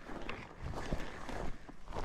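A person's footsteps, walking on the ground, several steps spaced a little unevenly.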